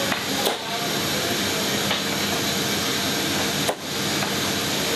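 Steady jet aircraft noise in a C-17 Globemaster III, an even rushing hum with a low steady drone, broken by two sharp clicks, one about half a second in and one near the end.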